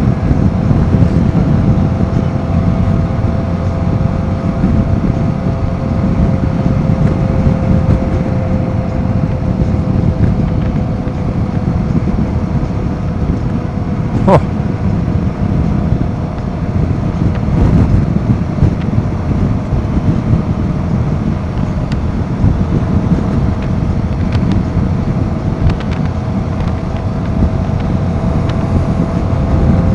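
Royal Enfield Himalayan 450's single-cylinder engine running at a steady cruise while riding, with wind rushing over the microphone. A short sharp click comes about halfway through.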